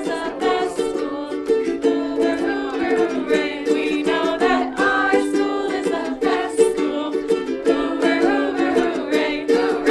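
Ukuleles strummed in accompaniment while a group of voices sings the song.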